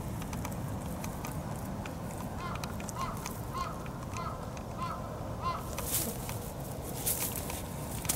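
A bird calls six times in a row, short arched notes about half a second apart. Then dry grass crackles and rustles in quick bursts as the cat gets up and moves right against the microphone.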